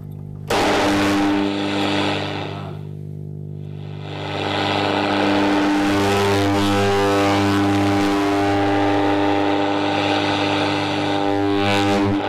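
Old tube radio used as a drone instrument: steady held low tones under a wash of radio static. The static jumps in about half a second in, thins out for a couple of seconds, then swells back.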